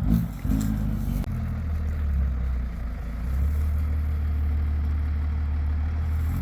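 A truck engine running steadily at low speed, a deep even hum that is a little uneven at first and settles about three seconds in.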